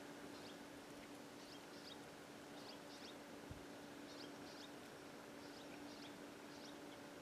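Faint, high chirps from a small bird, repeated in pairs about once a second, over a steady low hum and hiss.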